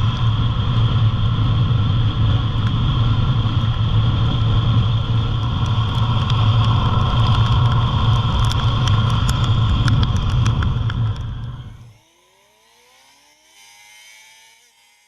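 Motorcycle riding at a steady speed: a continuous low engine drone mixed with wind and road noise, with scattered sharp ticks on the microphone. It fades out about twelve seconds in, leaving only faint sound.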